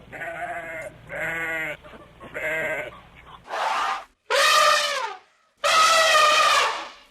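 Goats bleating: three short bleats, then, after a sudden change in the background about halfway through, three louder, longer bleats.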